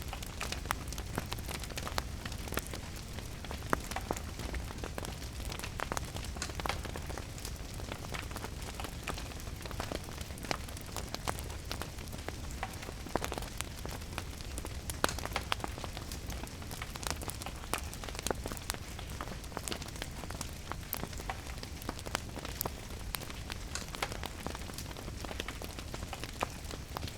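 Steady rain mixed with a crackling wood fire, many small irregular pops and snaps over the even hiss of the rain.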